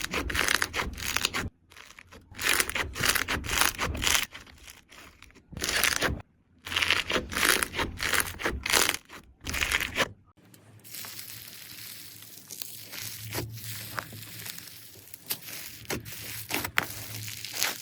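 Slime being squeezed and pressed, with loud crackling, crunching bursts and short pauses for about the first ten seconds. It then changes to a quieter stretch of soft, sparse clicks and a faint low hum.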